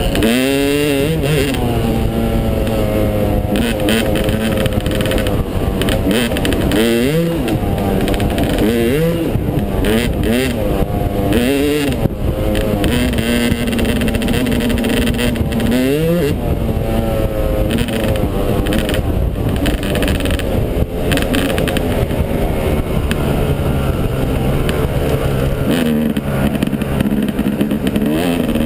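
Yamaha 250 dirt bike engine running hard during a ride, its pitch climbing and dropping again and again as the throttle opens and closes, with a steadier stretch about halfway through.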